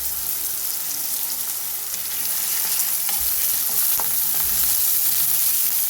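Chopped onion and coriander stalks frying in hot oil in a cooking pan, sizzling steadily as the onion browns, with a few faint clicks about three and four seconds in.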